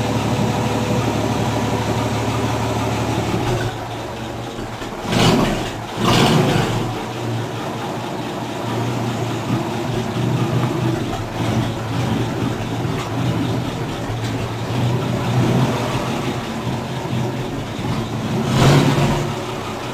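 1957 Plymouth's engine idling with a steady low hum. There are short, louder rushes of noise twice around five to six seconds in and once near the end.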